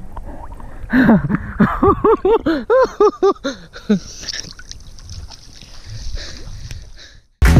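Water splashing and sloshing, with a quick run of about ten short rising-and-falling cries from a person in the first half, then a steadier rush of water.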